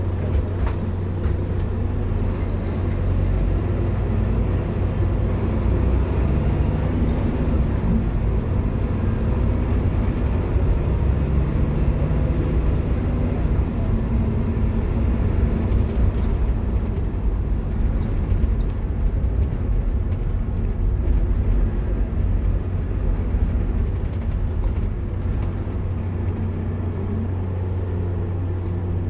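Scania K230UB single-deck bus heard from inside the passenger saloon while under way: a steady low drone from its five-cylinder diesel engine and the road, swelling a little in the middle, with a few light rattles and knocks from the body.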